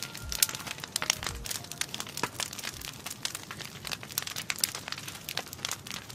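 Wood campfire crackling, with many quick sharp pops and snaps. The last faint notes and bass thumps of a song die away in the first second or two.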